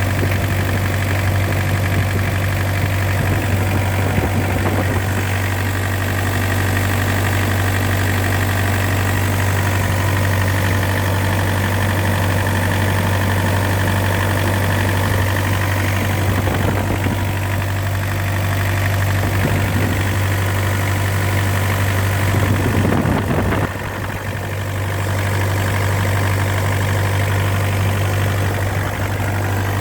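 Mitsubishi L200's 4D56 four-cylinder diesel engine idling steadily with a constant low hum, with a brief change in the sound about three-quarters of the way through.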